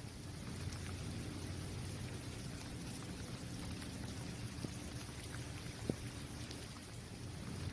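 Steady rain falling on a basketball court: a continuous hiss of drops, with a few sharper single drop taps standing out, the clearest about six seconds in.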